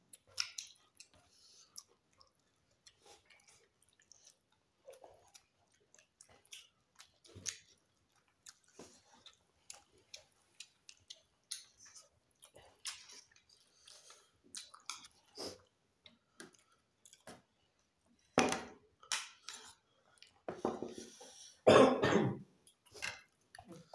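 Close-up eating sounds of two people eating rice and chicken curry by hand: wet chewing and lip smacks that come as scattered short clicks. A few louder bursts of coughing come near the end.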